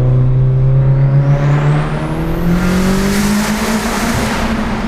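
Big-turbo Audi B5 A4 accelerating hard, its engine note climbing steadily while a thin turbo whistle rises steeply to a very high pitch. A loud rushing hiss builds over the second half and eases off near the end.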